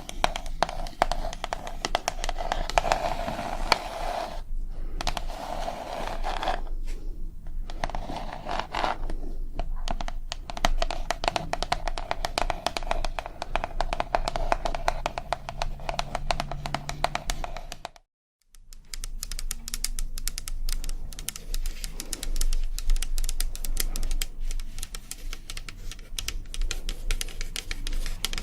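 ASMR tapping: rapid, dense taps on a hard object, like fast typing. The taps carry a ringing tone in the first half. They stop dead for about half a second roughly two-thirds of the way in, then resume.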